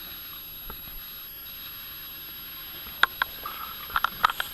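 A few sharp clicks and light knocks over a steady hiss: two in the second half, then a quick cluster near the end.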